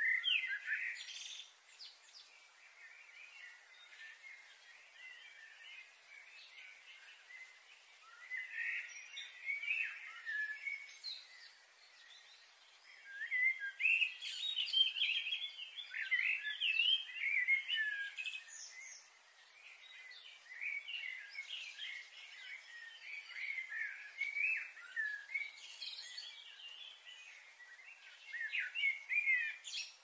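Small birds chirping and twittering, many short calls overlapping, busiest in the middle and again near the end.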